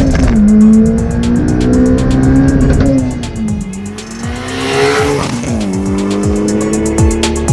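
Mitsubishi Evo IX's turbocharged 2.2-litre 4G63 four-cylinder through a Tomei full exhaust, its engine note dipping, climbing with a rush of noise about halfway, then dropping sharply. Electronic music with a steady beat plays over it.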